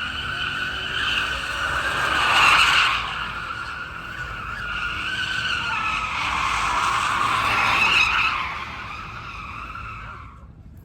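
A car's tyres squealing continuously on pavement as it spins and slides. The screech wavers in pitch, swells loudest about two and a half and eight seconds in, and dies away near the end.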